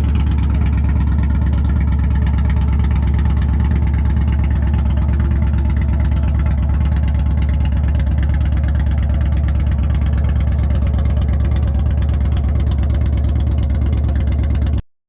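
Indian Challenger motorcycle's V-twin engine running at a steady idle, with a deep, even exhaust note. It stops abruptly near the end.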